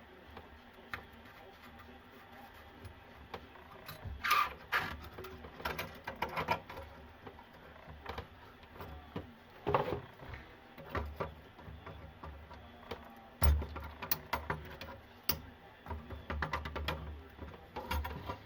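Irregular knocks, clicks and scraping of plumbing parts and tools being handled while working on a sink drain, with a heavier thump about two-thirds of the way in.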